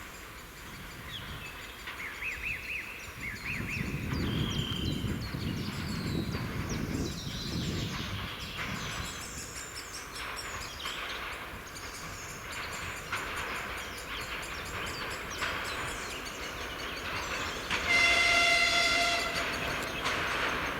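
ДПЛ1 diesel train moving slowly along the track, with birds chirping in the first few seconds and a low rumble swelling and fading in the first half. Near the end the train sounds one horn blast of about a second and a half, the loudest sound.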